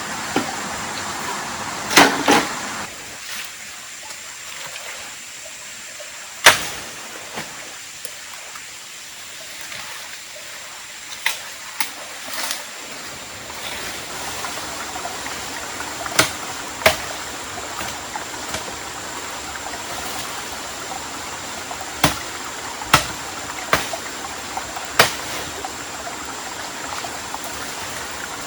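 Steady rush of running water, like a forest stream, with a sharp knock every few seconds.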